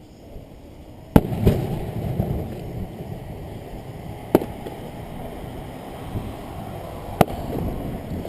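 Fireworks shells bursting: a sharp bang about a second in, quickly followed by a second, then single bangs near the middle and near the end, each trailed by a low rumbling echo.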